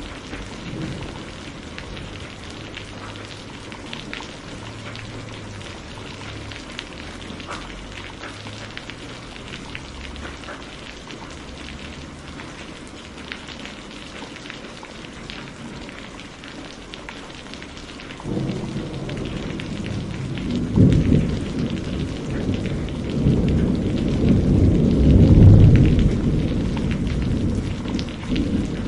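Wood campfire crackling steadily with small sharp pops. About two-thirds of the way in, a low rumble sets in and swells to become the loudest sound, then eases off near the end.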